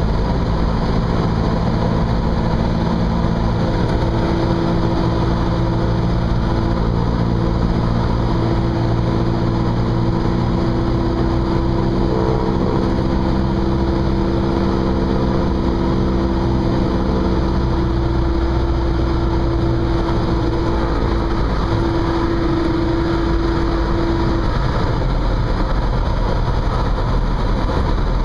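Cessna 172's piston engine and propeller droning steadily, with a few steady humming tones over it that come in about four seconds in and fade out after about twenty seconds.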